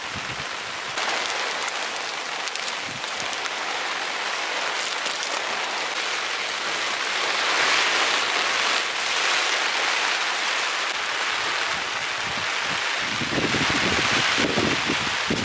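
Heavy rain falling steadily, a dense hiss that swells louder about halfway through and again near the end.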